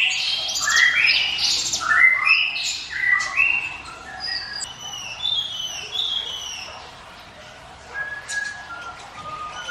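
Ciblek gunung, a prinia, singing its 'ngiwit wit' song: a fast run of rising chirped notes that slows to spaced, quieter whistled notes around the middle and thins out toward the end.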